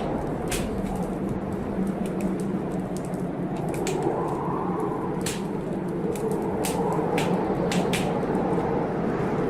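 Wood fire crackling, with irregular sharp pops and snaps, over a steady rush of blizzard wind that swells a little about four seconds in and again near seven seconds.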